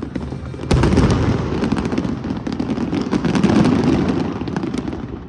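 Aerial fireworks bursting: a loud boom about a second in, then dense crackling and popping over a rumble, fading near the end.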